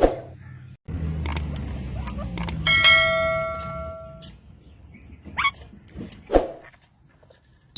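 Parrot calls: short squawks, with a sustained ringing, bell-like note lasting about a second and a half near the middle.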